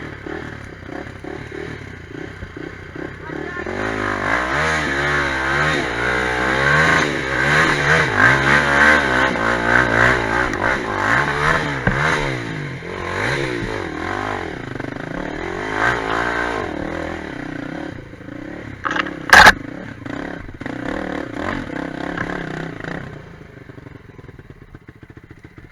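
Quad bike (ATV) engine revving up and down repeatedly while riding over rough off-road ground, loudest in the middle stretch and easing off toward the end. A single sharp, very loud knock cuts through about three quarters of the way in.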